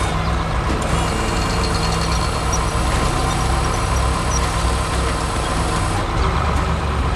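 Heavy truck engine running steadily at an even, low pitch.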